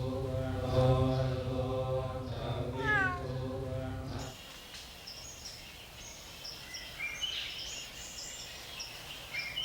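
A cat meows once, a falling call about three seconds in, over a steady low droning tone. After about four seconds the drone cuts off abruptly, leaving faint high chirping.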